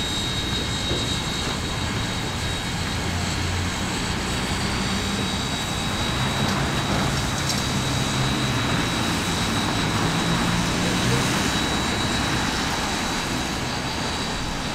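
Steady rumbling and rushing noise of a train, with a thin steady whine high up.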